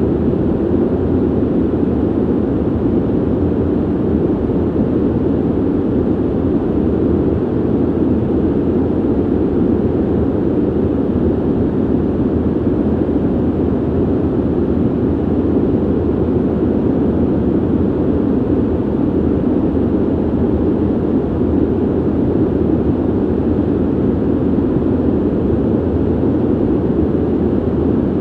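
Ventilation system running: a steady, deep rush of air with little hiss and no changes.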